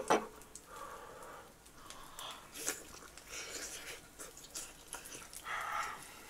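Close-miked eating of soft, buttery French toast: sharp mouth clicks at the start, then scattered small chewing clicks and several short, noisy breaths.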